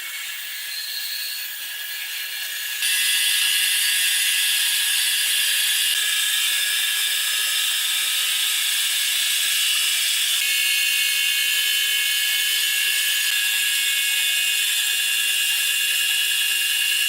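Sawmill saw running with a steady high-pitched whine made of several tones over a hiss. It gets louder about three seconds in.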